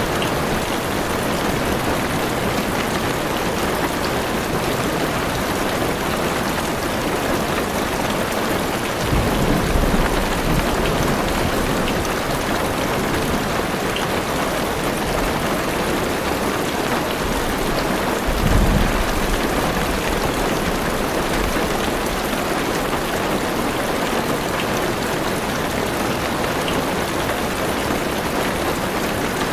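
Heavy rain pattering steadily on a car's roof and windows, with two low rumbles of thunder, about nine and eighteen seconds in.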